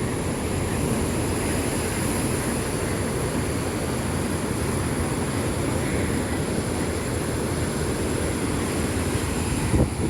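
Steady low rushing noise of the sea, waves washing with wind, with a brief thump near the end.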